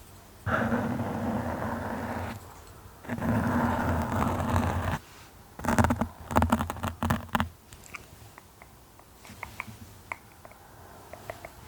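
Close-up scratching on a surface: two long scratching strokes of about two seconds each, then a burst of quick scratches, then light scattered taps near the end.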